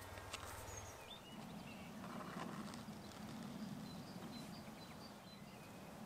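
Faint outdoor ambience with distant birds chirping now and then, over a low steady hum.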